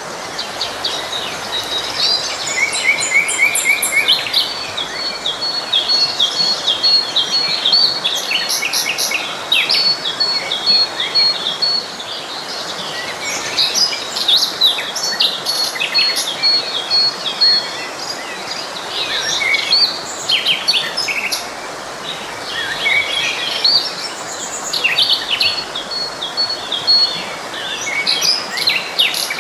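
Several songbirds chirping and singing over the steady rush of a flowing stream, with a high, rapid trill recurring several times.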